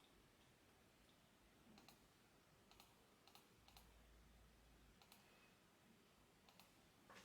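Near silence, broken by about half a dozen faint, sharp clicks at irregular intervals.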